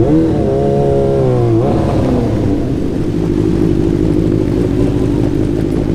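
TQ midget race car engine revving on a speedway track: a high engine note held for about a second and a half, then a sharp drop as it backs off, then steady running.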